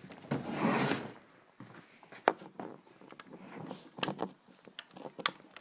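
A short rustling burst, then a few scattered sharp clicks and knocks.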